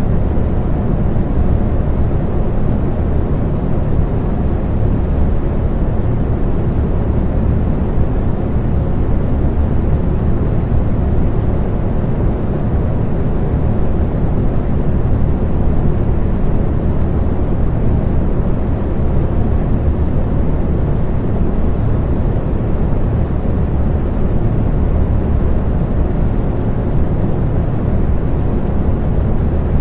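Electric fan running steadily: an even, deep rush of air, heaviest in the bass, with a faint steady hum over it.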